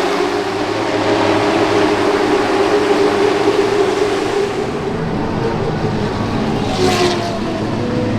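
An engine running at a steady pitch, with a brief hissing whoosh about seven seconds in.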